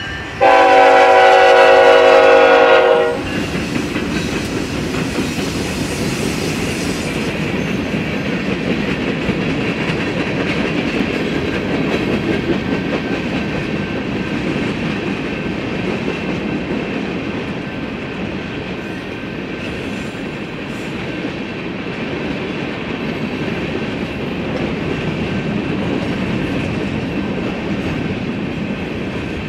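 Freight train led by a GE ET44C4 locomotive sounds its air horn in one long blast of about three seconds, starting just after the opening. The train's cars then roll steadily past with wheel rumble and clickety-clack over the rail joints.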